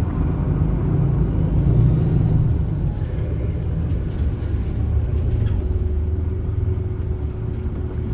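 MAN Lion's City A21 bus with ZF EcoLife automatic gearbox running, a steady low drone that swells about one to two seconds in and then settles.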